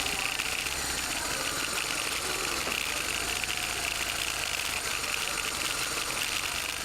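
BMW R1200R's boxer-twin engine running steadily at low road speed, with a steady hiss of wind and road noise.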